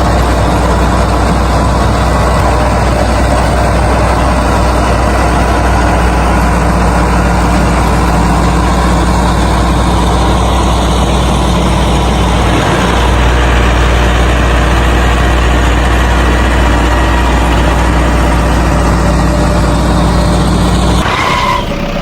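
An engine running steadily at a constant pitch, with a slight change about halfway through; it cuts off about a second before the end.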